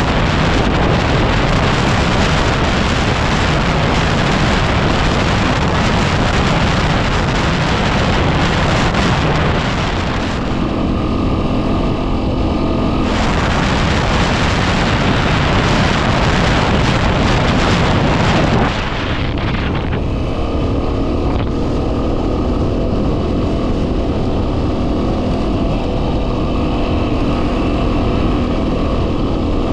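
Yamaha WR250R's 250cc single-cylinder four-stroke engine running at a steady cruise, much of the time buried under heavy wind buffeting on the microphone. The wind eases about ten seconds in and again near twenty seconds, letting the engine's steady note come through.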